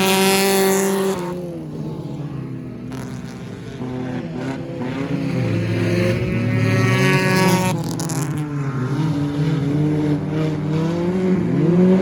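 Stock car engines racing, with cars passing in turn as the engine note falls away and climbs again. The loudest passes come near the start and between about six and eight seconds in.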